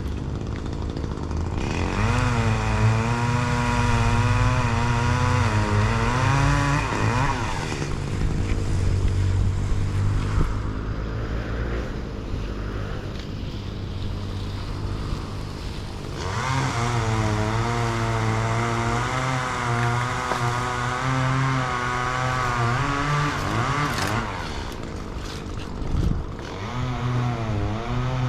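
Chainsaw revved high in three long bursts, its pitch wavering as it works, dropping back toward idle between bursts. A steady low engine drone runs underneath.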